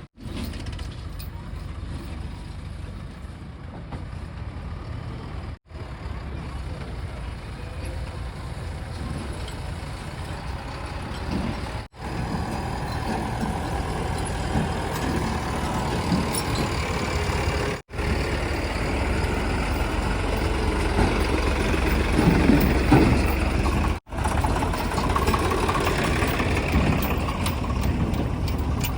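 Heavy diesel machinery running steadily, growing louder in the second half with some clanking about two-thirds of the way through; the sound cuts out briefly about every six seconds.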